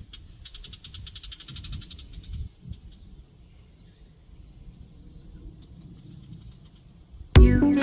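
A bird giving a fast, chattering run of short high notes for about two seconds, then a few thin high whistles; the uploader asks whether it is a bull-headed shrike. Loud music starts just before the end.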